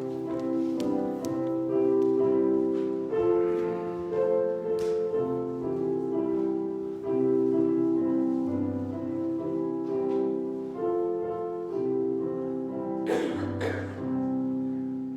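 Instrumental keyboard music: slow, sustained chords that change every second or so. A brief burst of noise cuts across it a little before the end.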